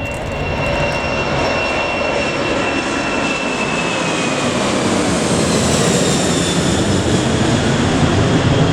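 Boeing 747 jet engines at takeoff power as the airliner climbs out just after lift-off: a dense rumble that grows steadily louder, with a high whine that slides down in pitch about halfway through as the aircraft passes.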